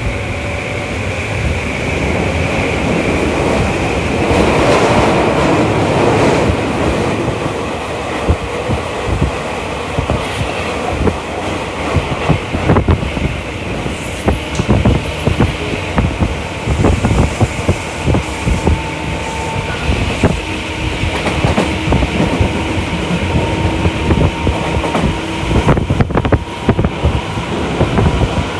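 Tokyu Toyoko Line commuter train running between stations, heard from inside the car: a steady rumble of wheels on rail, broken by many short clicks over rail joints, and a faint steady motor tone. The rumble swells louder about four to six seconds in.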